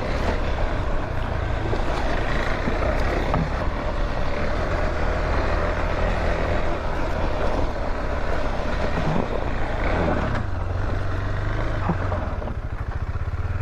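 Vehicle engine running steadily on the move, a low hum under road and wind noise.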